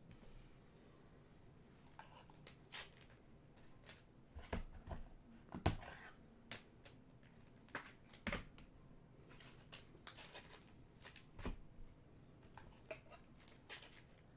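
Trading cards being handled and flipped through: faint, irregular taps and slides of card stock, with one louder tap a little before the middle.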